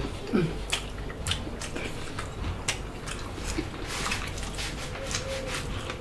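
Close-miked chewing: a run of wet mouth clicks, smacks and squelches of people eating, irregular throughout.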